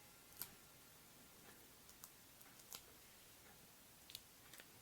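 Near silence with a few faint, scattered clicks and taps of card stock being handled and set in place.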